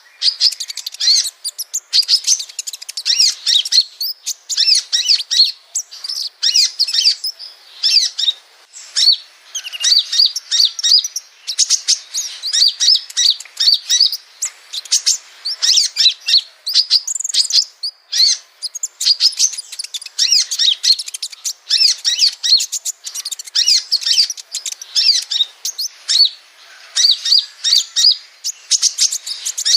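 Sunbird song: a fast, continuous run of thin, high-pitched chirps and twittering trills, with hardly a pause.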